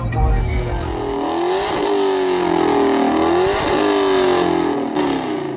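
Car engine revving, its pitch rising and falling several times. Heavy bass plays under it at the start and cuts off about a second in.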